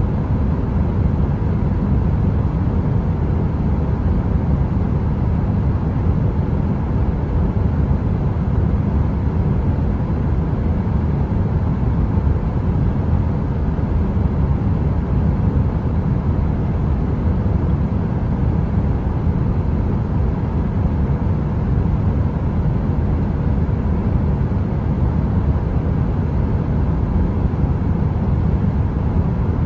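Steady heater-style brown noise: an even, deep rumbling hiss that is strongest low down and thins toward the top, with a faint steady hum above it. There are no crackles or pops, and nothing changes.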